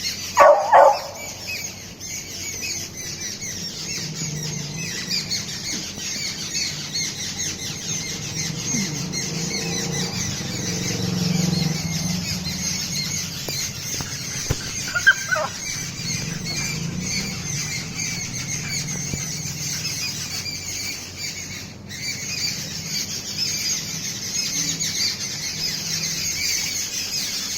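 Beagle puppy whining and yelping to get a cat's attention: a loud high yelp right at the start and another about halfway, with softer low whines and grumbles in between.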